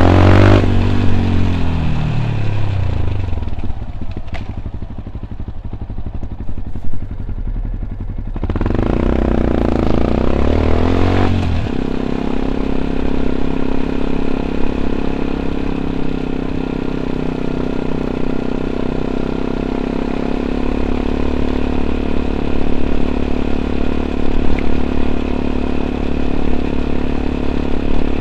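Yamaha WR 125 X's single-cylinder four-stroke engine through an Arrow exhaust with dB killer: revs falling as the bike slows, a few seconds of quieter low running, then revs rising as it accelerates, a gear change a few seconds later, and steady cruising revs after that.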